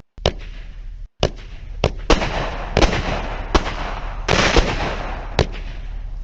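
Small multi-shot consumer firework cake firing: about eight sharp reports, irregularly spaced, with crackling hiss between them, played back from a product demo video.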